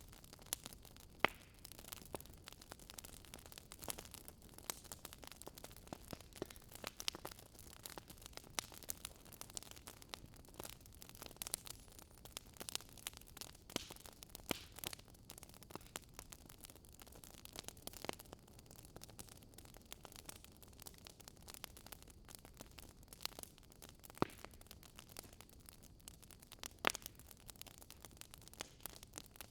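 Wood fire crackling: irregular sharp pops and snaps over a soft steady hiss, with a few louder pops scattered through.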